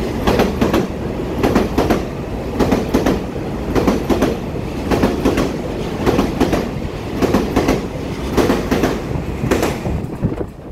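Taiwan Railways EMU3000 electric multiple unit passing close at speed: a steady rumble with wheels clacking over rail joints, the clacks coming in pairs about once a second. The sound eases off near the end as the last car goes by.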